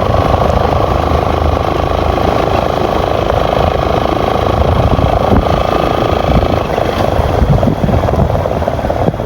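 Yamaha FZ-S V2 motorcycle's single-cylinder engine and exhaust running steadily under way, with rumbling wind on the microphone.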